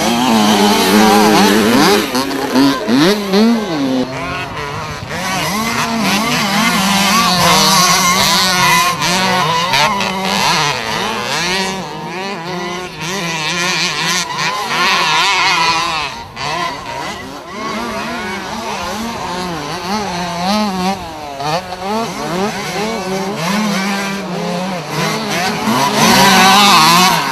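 Several 65 cc two-stroke minicross motorcycles racing, their engines revving up and down over and over as they are ridden around the track.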